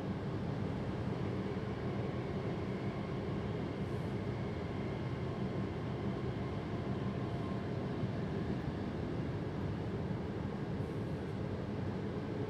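Passenger train running along the track, heard from the driver's cab as a steady low rumble with no change in speed.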